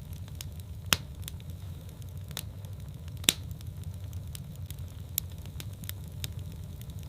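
Wood fire burning in a fireplace: a steady low rumble of flames with scattered sharp crackles and pops, the loudest about a second in and again just past three seconds.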